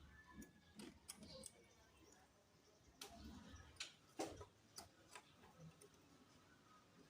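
Near silence broken by faint, irregular clicks and taps, about a dozen scattered through, the loudest a little after four seconds in.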